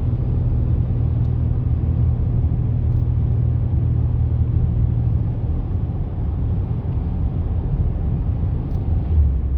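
Steady low rumble of road and engine noise inside a vehicle cruising on the highway; the low hum shifts slightly about halfway through.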